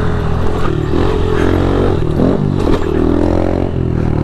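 Pit bike engine running while being ridden, its pitch rising and falling a few times in the middle as the throttle is worked, over a steady lower engine drone.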